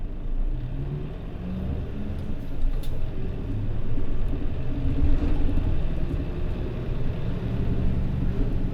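Mitsubishi Fuso PJ-MP35JM city bus diesel engine running while the bus drives, heard from inside the bus: a steady low rumble whose engine note rises and drops several times.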